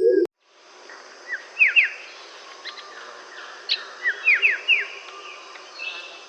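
Wild birds calling over a steady forest background: short, clear whistled notes that slide downward, in two quick runs of three or four.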